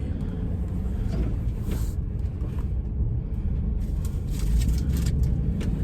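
Steady low rumble of the delivery van, with a few light clicks near the end.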